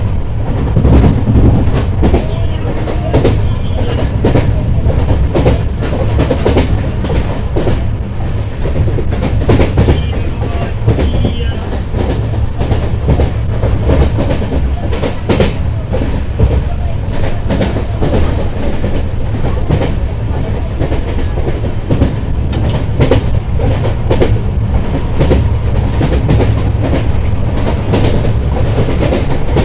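LHB passenger coach running along the track, its wheels rumbling on the rails with a continuous run of sharp clicks as they pass rail joints and welds.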